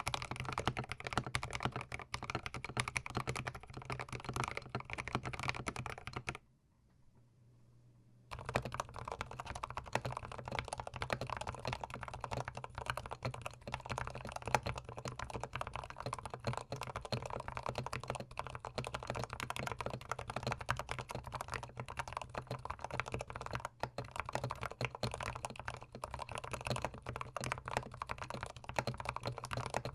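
Fast typing on a GMMK Pro mechanical keyboard, a dense run of key clacks, fitted with C3 Tangerine linear switches. The typing stops for about two seconds, then resumes on Tealios linear switches.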